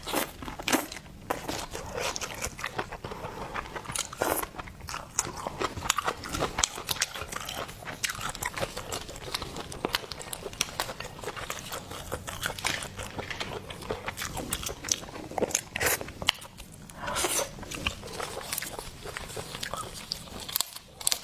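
Close-miked biting and chewing of shellfish, with many crisp clicks and crunches.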